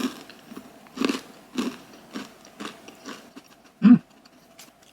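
Close-up biting and crunchy chewing of a chocolate coconut crunch bar filled with coconut flakes and puffed rice, a crisp bite at the start and then about two crunching chews a second. A brief low 'mm' from the eater near the end is the loudest sound.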